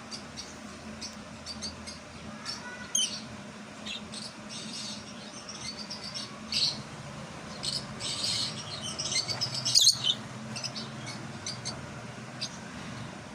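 Fischer's lovebirds chirping in short, high, scattered calls, with a louder flurry about ten seconds in, over a low steady hum.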